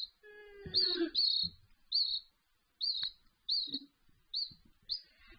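Raza Española canary chick cheeping as it is hand-fed: short high chirps, about eight in a row, spaced roughly half a second apart. These are its begging calls for food.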